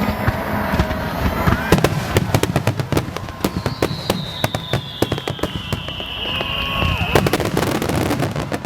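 Aerial fireworks bursting in rapid succession, a dense run of bangs and crackles. Midway a long whistle falls slowly in pitch for about four seconds before cutting off.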